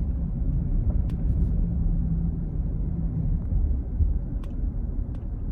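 Steady low rumble of road and engine noise inside a moving vehicle's cabin, with a faint hum for the first few seconds.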